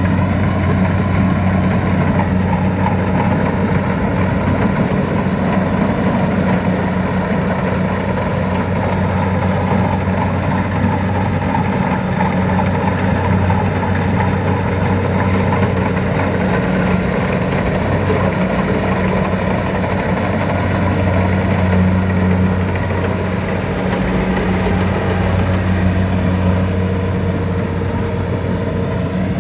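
Farm machine's diesel engine running steadily at a constant speed, with a deep, even hum.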